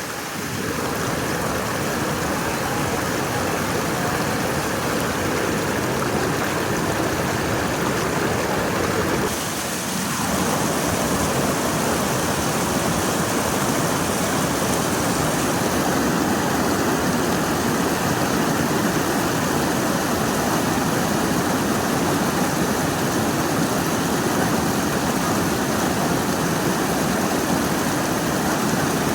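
Rushing water, a steady continuous roar of flowing water. About ten seconds in the sound breaks briefly and changes to a slightly different, fuller rush, as another flow of water takes over.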